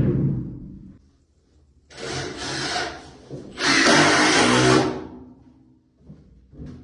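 Power drill running in two bursts of about a second each, the second louder, driving screws into wooden wall framing. A low thump just as it begins.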